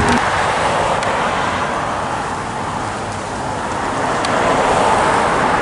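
Steady rushing noise of road traffic, growing louder about four and a half seconds in.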